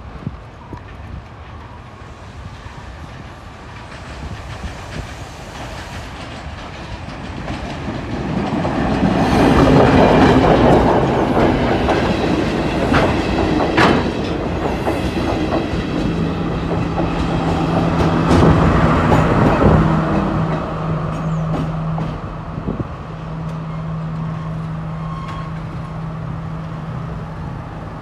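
Class S12 diesel multiple unit passing close by, its wheels clattering over the rail joints. The clatter builds over several seconds, is loudest about a third of the way in, and eases off later while a steady low hum runs on.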